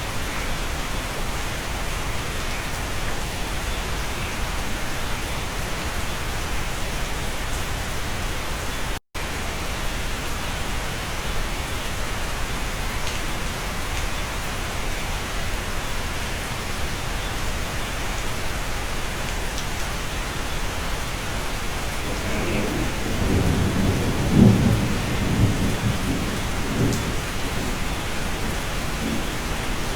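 Steady rain, heard from inside a cabin, with a low rumble of thunder rolling in about three-quarters of the way through and peaking shortly after. The sound cuts out for a split second about nine seconds in.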